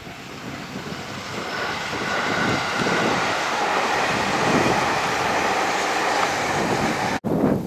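Electric limited express train running past on the line, the noise of its wheels on the rails building over the first couple of seconds and then holding steady. The sound cuts off sharply near the end.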